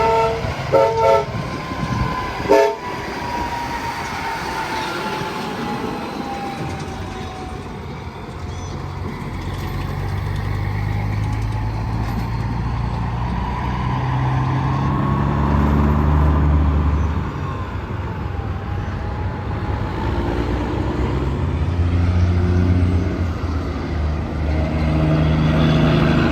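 A semi truck's air horn sounds in three short blasts, then highway traffic passes with a tone dropping in pitch as it goes by. A diesel truck engine drones low, changing pitch in steps, and another horn sounds near the end.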